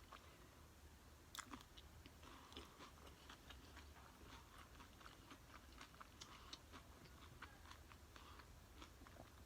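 Faint close-up chewing of a mouthful of nachos: small wet mouth clicks and crunches, scattered irregularly, with one louder crunch about a second and a half in.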